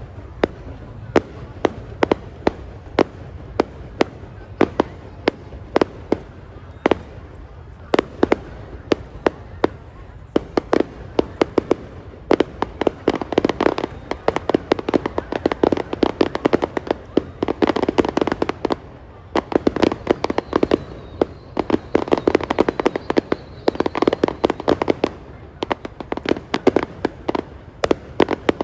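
Fireworks going off in a rapid series of sharp bangs. They come about two a second at first, then thicken into dense, crackling clusters of bursts about halfway through.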